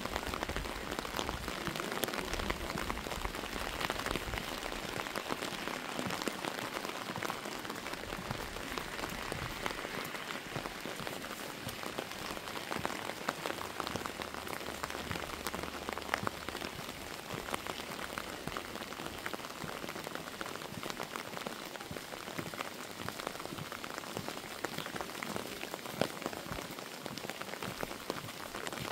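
Steady rain falling, a continuous hiss full of small drop ticks, with a few louder single drops here and there.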